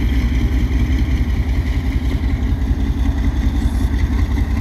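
Departing passenger train rolling past, a steady low rumble.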